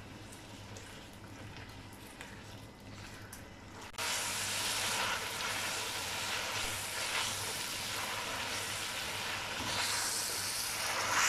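Chicken and tomato-spice masala frying in oil in a karahi while a spatula stirs it. There is only faint stirring at first, then a sizzling hiss starts suddenly about four seconds in and grows louder near the end.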